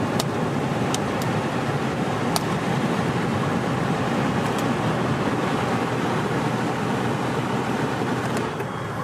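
Steady rush of air from the climate control blower fan running inside the cabin, with a few light clicks in the first half; the noise drops shortly before the end.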